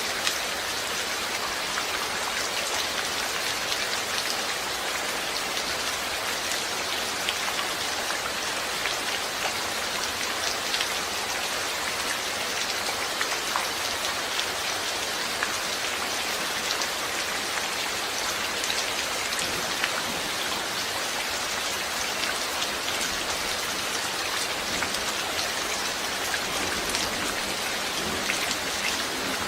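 Steady rain falling, a dense even hiss with many fine drop ticks on a hard surface.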